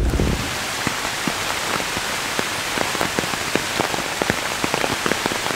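Steady rain falling on a hardwood forest, an even hiss with frequent sharp taps of drops landing close by on leaves and bark. A short low thump comes right at the start.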